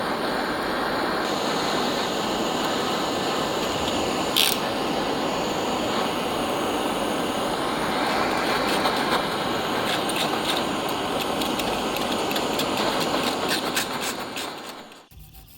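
Power tool grinding rusty metal: a steady rushing noise with occasional sharp ticks, which winds down and stops about a second before the end.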